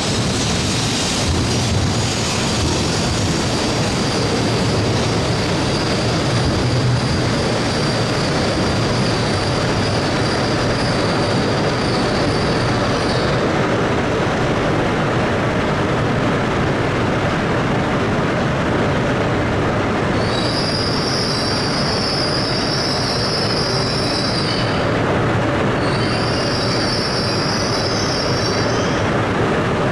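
E956 ALFA-X Shinkansen test train rolling slowly into a station platform and slowing toward a stop, a steady rumble of wheels and running gear. A high-pitched squeal rings over it for the first dozen seconds, and comes back in two shorter spells near the end as the train slows.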